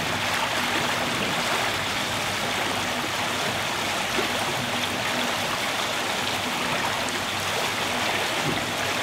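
Steady rush of water streaming past a sailing yacht's hull, an even hiss that holds at one level.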